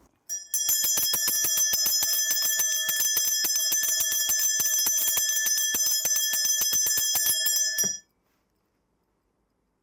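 A cluster of metal shaman's ritual bells shaken rapidly and continuously, a dense jangling ring, for about eight seconds before stopping abruptly.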